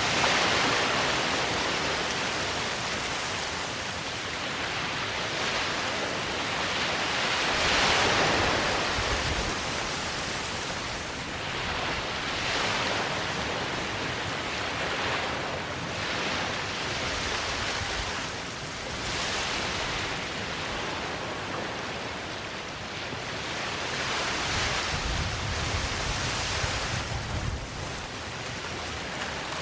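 Small waves washing onto a sandy beach, a steady hiss of surf that swells and fades every few seconds, with a low rumble of wind on the microphone near the end.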